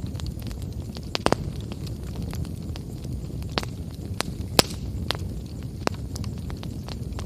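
Wood campfire burning, with scattered sharp crackles and pops over a low steady rumble; the loudest pop comes about four and a half seconds in.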